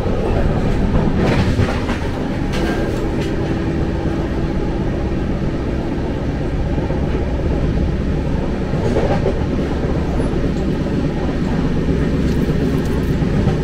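Indian Railways passenger coach running on the track: a steady rumble of wheels and carriage, with a few brief knocks now and then.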